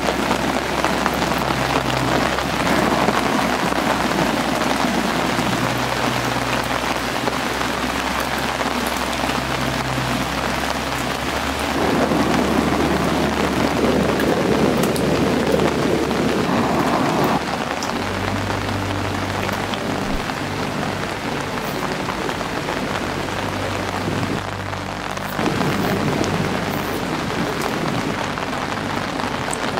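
Steady rain falling, with a low steady hum beneath it. The sound changes abruptly three times, as from one recording to another.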